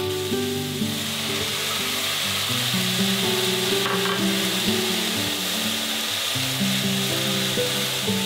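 Diced mushrooms and sliced Chinese sausage sizzling steadily in a nonstick frying pan as they are stirred with a silicone spatula, with a brief clatter about four seconds in. Background music plays underneath.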